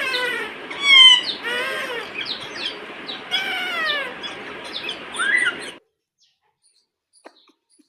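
Pet ring-necked parrot giving a rapid string of chirping calls that rise and fall in pitch, over a steady background hiss. The sound cuts off abruptly about six seconds in.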